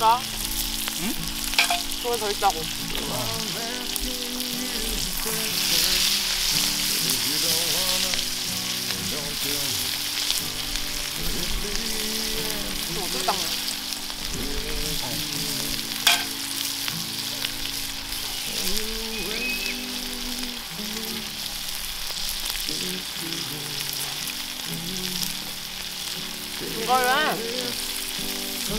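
Food frying and sizzling, with a few sharp pops, over soft instrumental background music.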